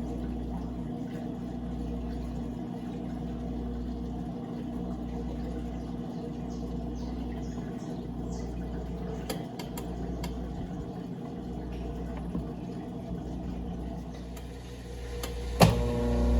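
Brastemp Clean 5 kg top-loading washing machine running: a steady motor hum with a low rumble that dips about every two seconds. Near the end there is a sharp click, and then a louder, deeper hum starts.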